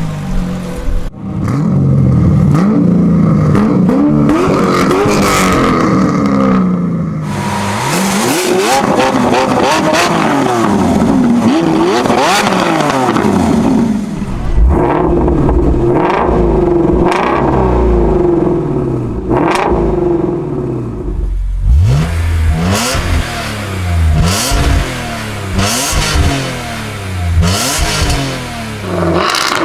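High-performance car engines revving and accelerating hard in a string of short clips, the pitch climbing and dropping again and again through gear changes. Near the end, a run of repeated rises in revs is broken by sharp cracks.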